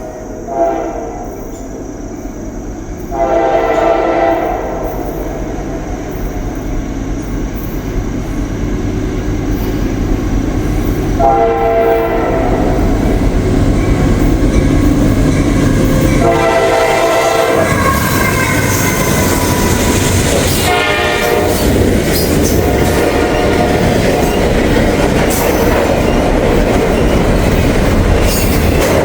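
Norfolk Southern freight train approaching at speed, its diesel locomotive blowing several horn blasts, some short and some held for a second or two. The rumble grows louder toward the middle, and in the last third the train passes close by with a loud, steady rumble and clatter of wheels over the rails.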